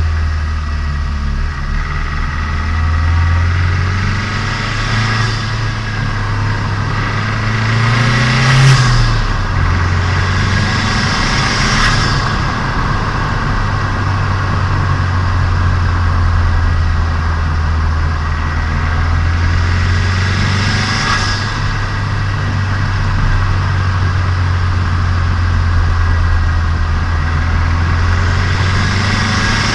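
Turbocharged Nissan Micra engine and exhaust heard from on board while driving, the engine being run in: a steady low drone, with a brief rise and fall in revs about eight or nine seconds in. Several short rushing hisses come and go on top.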